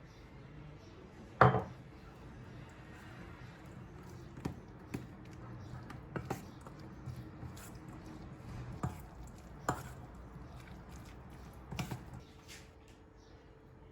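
Irregular knocks and clatters of kitchen work with utensils and dishes, about eight in all, the loudest about one and a half seconds in, over a faint low hum.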